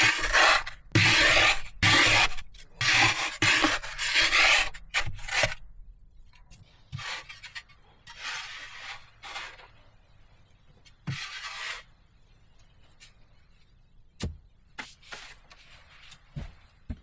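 Hand-tool work: repeated rasping, scraping strokes, quick and loud for the first five seconds, then slower and fainter, with two sharp knocks near the end.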